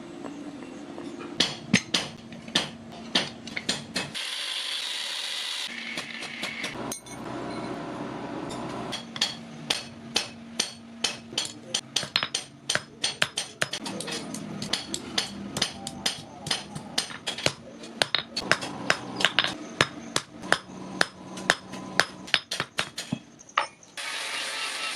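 Blacksmith's hammer striking hot steel on an anvil while forging an awl: a long run of sharp blows at about two to three a second, broken by a short hiss about four seconds in.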